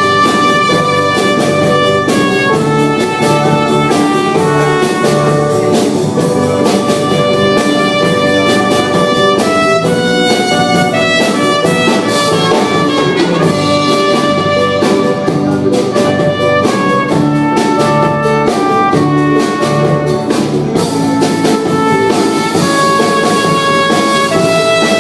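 Live band playing an instrumental passage of a rock song: drum kit keeping a steady beat under a sustained melodic lead line, with no singing.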